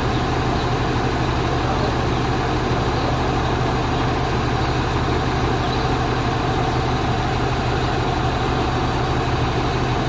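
Four-axle truck's diesel engine running steadily, a constant low rumble with no revving.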